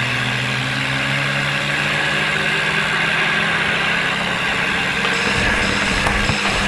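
John Deere tractor's diesel engine running at a steady speed.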